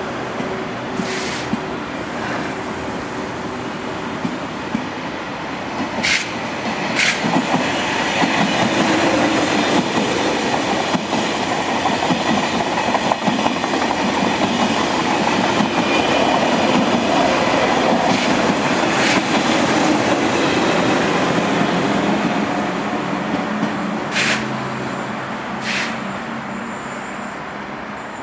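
TGV Duplex double-deck high-speed train passing close by, a steady rumble of wheels on rail that swells as the double-deck cars go by and eases near the end. Sharp wheel clacks over rail joints and points come twice about six seconds in and twice again near the end.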